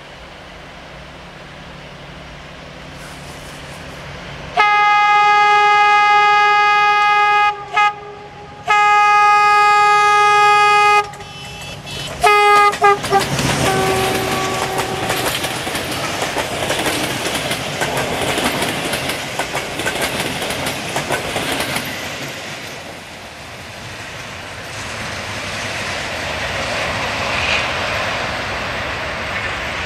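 CFR LDH diesel-hydraulic locomotive sounding its horn in two long blasts and a few short toots as it approaches, the horn pitch dropping as it passes. Engine noise follows, with wheels clacking over the rail joints as the locomotive and its coaches go by, fading and then swelling again near the end as the train rolls on.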